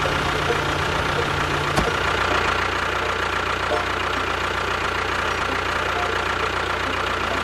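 Small motor of a DIY model tractor running steadily with a faint whine; a click about two seconds in, after which its low hum settles a little lower.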